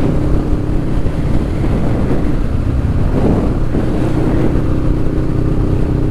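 Motorcycle engine running at road speed with wind noise on the microphone; the engine note shifts for a moment a little past the middle, then settles back to a steady note.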